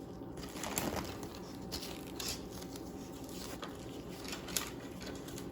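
Faint, irregular rustling and crinkling with small scattered clicks: hands handling and wrapping a fiberglass repair wrap and its elastic bandage around a pole.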